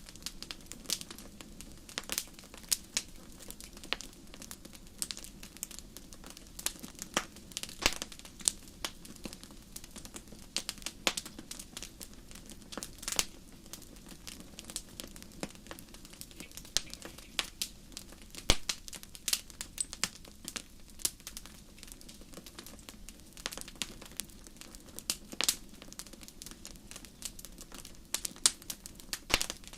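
Wood fire crackling in a fireplace: irregular sharp pops and snaps, a few louder than the rest, over a faint steady hiss of the burning logs.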